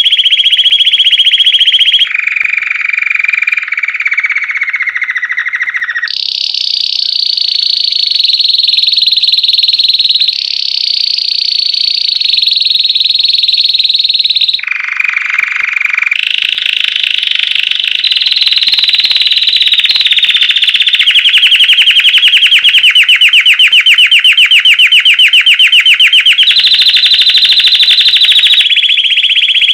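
White Belgian canary singing a loud, continuous song of rapid trills. It switches abruptly to a new phrase, higher or lower, every two to four seconds.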